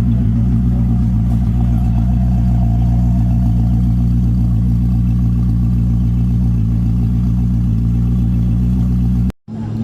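Koenigsegg CC850's twin-turbo V8 idling steadily at an even pitch. Near the end the sound cuts out for a moment and the engine is heard again.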